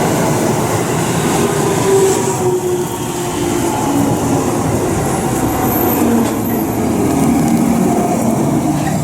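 Electric train running past at a station, a loud steady rumble with a motor whine whose pitch slowly falls.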